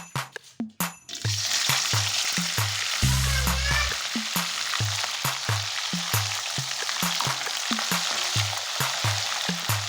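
Food frying in hot oil in a pan: a steady, dense sizzle that starts abruptly about a second in.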